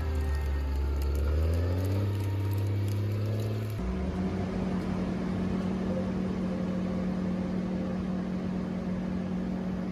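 A machine's engine running and rising in pitch for the first few seconds, then a sudden switch to another engine's steady drone.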